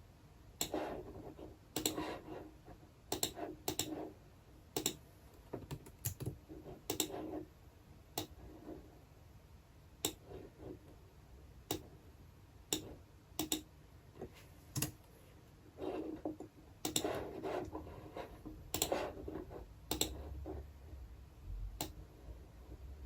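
Typing on a computer keyboard: irregular keystrokes and clicks, some single and some in short runs, with pauses between.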